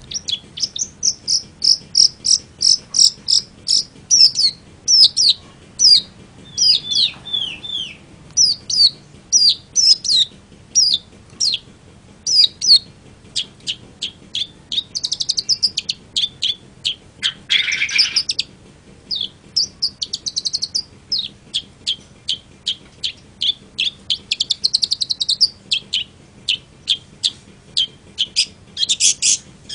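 Long-tailed shrike (cendet) singing: a rapid, varied run of short, high, down-slurred chirps and whistles, with a harsh rasping note about halfway through.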